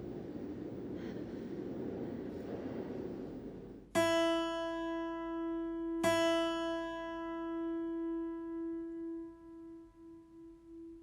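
A steady low noisy hum, then a single piano-like keyboard note struck about four seconds in and again two seconds later, each time ringing out long and slowly fading.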